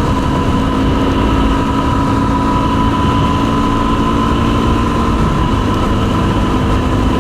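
Yamaha WR250R's single-cylinder four-stroke engine running at a steady speed while riding, with wind rumble on the microphone. The engine note holds constant throughout.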